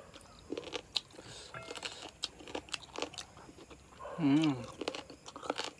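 A person chewing a mouthful of chicken curry and rice, with many short sharp mouth clicks. About four seconds in there is a short wavering hum from the eater's voice, the loudest sound in the stretch.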